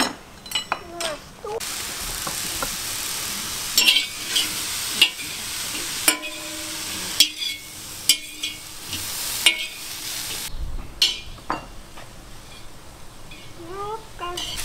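Diced smoked sausage sizzling as it fries in a kazan, stirred with a metal slotted spoon that scrapes and clinks against the pot about once a second. The sizzle sets in about a second and a half in.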